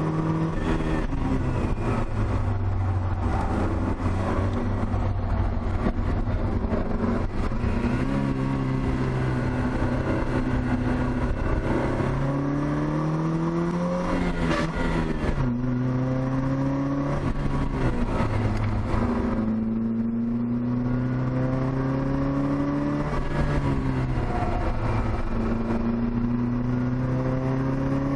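Opel Speedster 2.2's four-cylinder engine, heard from inside the cockpit, driven hard around a circuit. Its pitch climbs under acceleration and drops back sharply several times as the car shifts and slows for corners.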